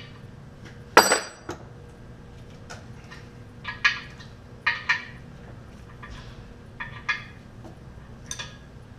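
Metal clanking and clinking as tools and parts are handled against the cast-iron engine block: one loud ringing clang about a second in, then a handful of lighter clinks.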